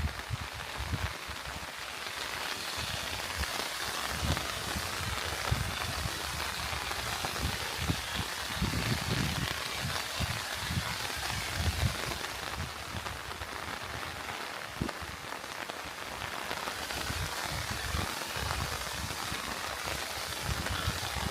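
Steady rain falling, a dense even hiss with the odd sharper drop ticking through.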